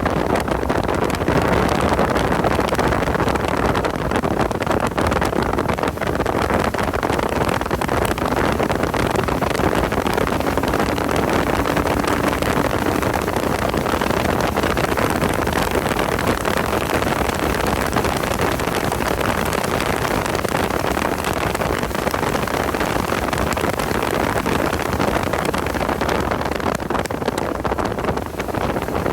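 Porsche 986 Boxster's flat-six running at speed on track, its sound largely buried in heavy wind noise on the microphone. The level stays steady throughout.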